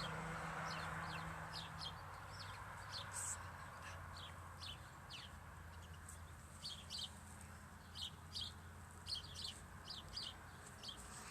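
Small birds chirping, short high chirps repeated every half second or so, over a low steady hum.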